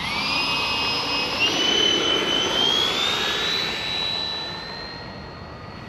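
Twin 80 mm electric ducted fans of a Freewing A-10 RC jet whining at high pitch, stepping up in pitch twice as the throttle is opened, then holding steady while the sound fades as the plane moves away.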